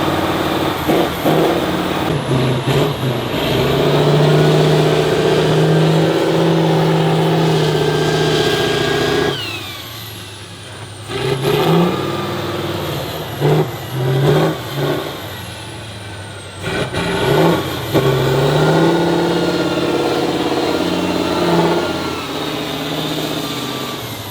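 Off-road trial truck's engine revving hard and held for several seconds, dropping away just before halfway, then blipped in a string of short revs.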